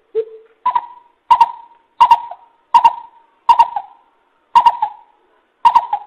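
Coucal (bìm bịp) calling: a series of short, deep hooting notes, about one every three-quarters of a second to a second. The first note is lower and the rest step up to a higher pitch. This is the lure call used to draw coucals in for trapping.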